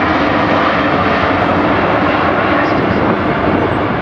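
Airbus A380 four-engine airliner's jet engines, a loud, steady rush of noise as the aircraft flies its low display.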